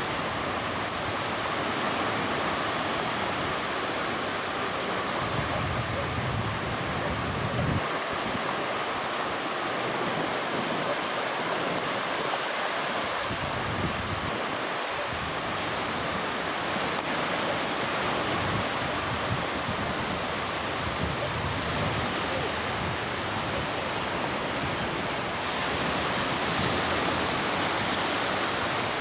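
Steady rush of sea surf, with wind gusting on the microphone.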